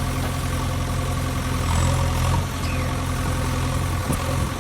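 Engine sound of a toy JCB backhoe loader running steadily as it is driven, a low, even hum.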